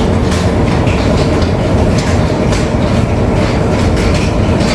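Tea-processing machinery running loudly in the factory: a steady low rumble with a fast, uneven clatter on top.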